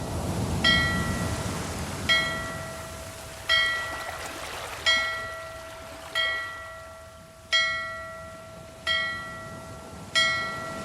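A small metal bell rings about every one and a half seconds, the same note each time, each stroke dying away, over a low rumble of sea.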